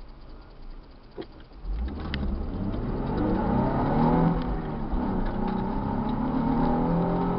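Car engine, quiet at first with a few sharp clicks, then about two seconds in pulling away under load and revving, its pitch rising and falling several times as it accelerates.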